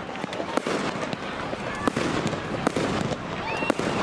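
Fireworks display: a dense, continuous crackle with several sharp bangs at irregular intervals.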